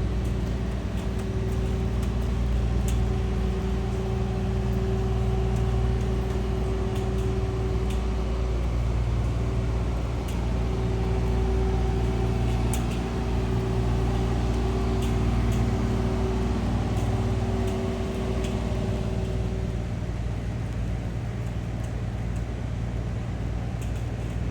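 Steady low machine hum with a few fixed tones, easing somewhat about twenty seconds in, with faint scattered ticks over it.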